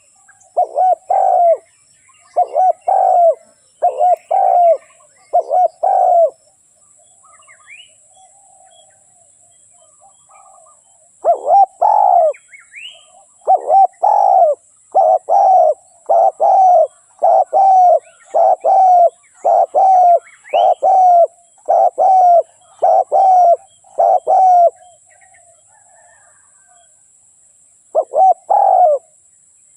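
Spotted dove cooing: a run of evenly repeated coo notes, a pause of a few seconds, then a longer run, and two more coos near the end. Faint chirps of small birds are heard in the pauses.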